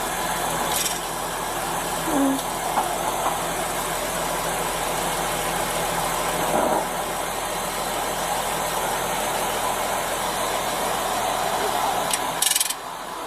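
A vehicle engine idling steadily under an even background hiss. Near the end there is a short scratchy rustle, and the noise drops a little right after it.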